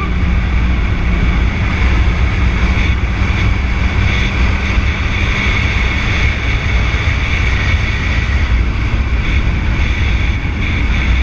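Steady wind noise buffeting the microphone of a moving motorcycle, over the low running of the engine and road.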